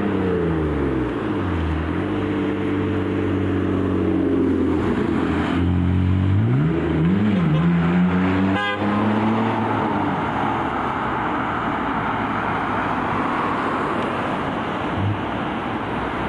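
Fire truck engine pulling away, its pitch falling and rising as it works through the gears. After about nine seconds it gives way to a steady road and tyre noise.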